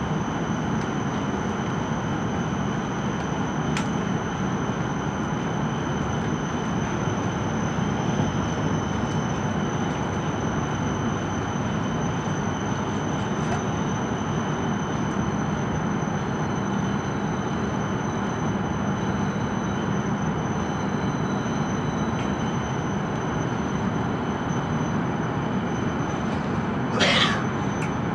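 E5 series Shinkansen running at speed, heard from inside the passenger cabin: a constant rumble of wheels and rushing air with a faint steady high whine. About a second before the end comes one brief sharp high squeal.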